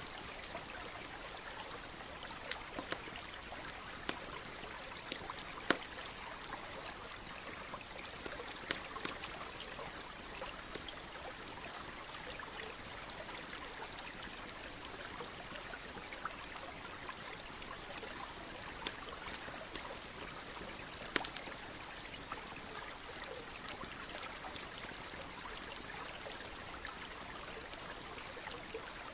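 Campfire crackling with irregular sharp pops over the steady rush of a flowing stream.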